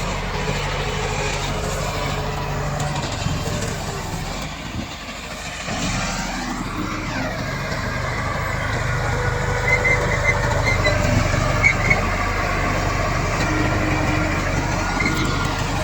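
Komatsu D68 bulldozer's diesel engine running steadily under work. The sound dips briefly about five seconds in, then picks up again with a sweep in pitch.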